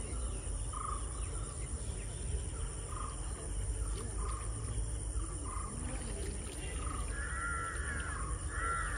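Birds calling: a run of short calls, then two louder calls near the end, over a steady low rumble.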